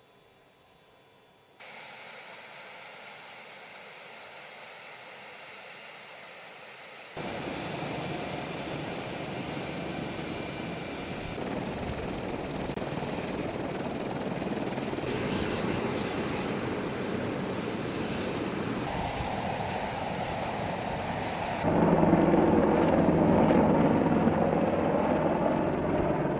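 AH-64 Apache helicopter noise over a series of cut-together shots: a steady rushing engine and rotor noise that jumps in level at each cut and is loudest in the last few seconds. A high whine falls slowly in pitch a few seconds into the louder part. It starts from near silence, with the noise coming in after about a second and a half.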